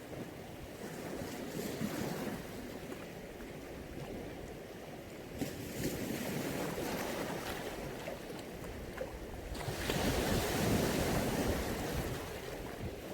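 Mediterranean sea waves breaking and washing in, a steady rush of surf that swells twice, about five seconds in and more strongly near ten seconds.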